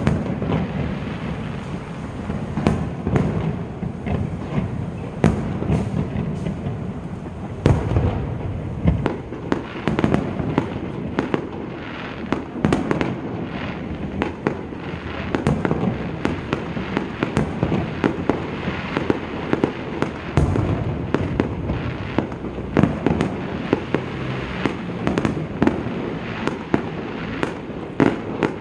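Aerial fireworks bursting in quick succession: a continuous run of bangs and crackles, with heavier low booms now and then, around the start, at about 8 seconds and at about 20 seconds.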